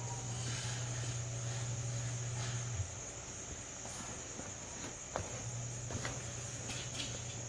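Crickets chirping steadily, with a low hum that drops out about three seconds in and comes back about two seconds later, and a few light knocks.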